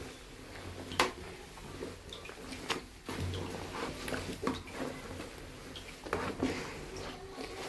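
Scattered knocks and clatter of household objects being handled, with a sharp knock about a second in.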